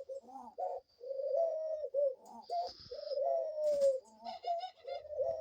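Pet doves cooing over and over, low rising-and-falling coo notes almost without a break, with a short run of high chirps just after four seconds and a single sharp click shortly before.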